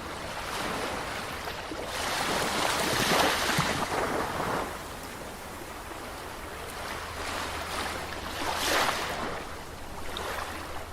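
Ocean waves breaking and washing on a shore: a steady hiss of surf with a bigger wave surging about two seconds in and fading by halfway, and another shorter break near the end.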